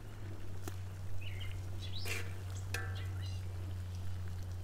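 A few short bird chirps over a steady low hum, with light clicks of metal tongs against a cast iron wok.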